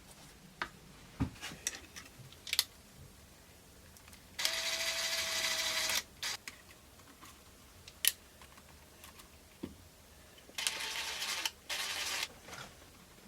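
Scattered clicks and knocks of parts and tools being handled, with two short whirring bursts of a small motorised tool, the second broken briefly near its end.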